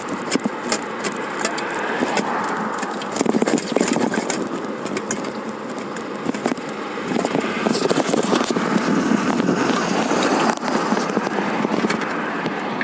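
Road traffic: cars passing, swelling louder twice, with frequent light rattling clicks over it.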